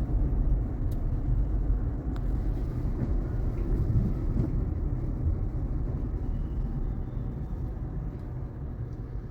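Low road rumble and tyre noise inside the cabin of a moving car on a wet road, easing slightly toward the end.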